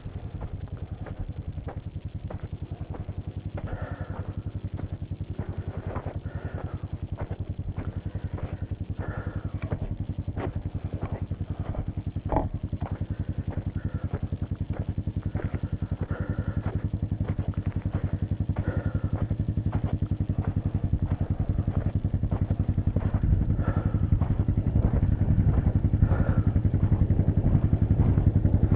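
An ATV engine running steadily, with scattered knocks and rattles. It grows gradually louder over the second half.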